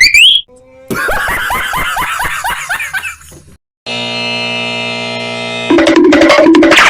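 A string of cartoon sound effects: a rising boing that ends just after the start, a rapid run of clicks for about two and a half seconds, a steady buzzer tone, then a louder pulsing alarm-like tone near the end.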